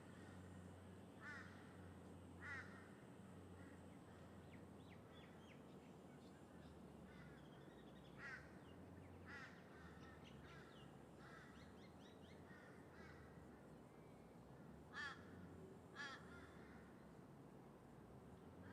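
Crows cawing faintly, a scattering of short calls throughout, the clearest in pairs. Beneath them runs a steady low rumble of distant traffic.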